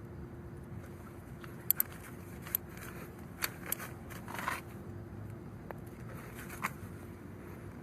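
A handful of scattered sharp metallic clicks and clinks from a wrench working the 17 mm drain plug of a motorcycle engine, over a faint steady hum.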